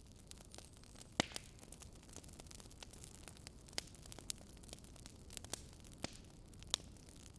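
Wood fire crackling in a fireplace, with small irregular crackles over a soft hiss and a few louder pops, about a second in and again around four and near seven seconds in.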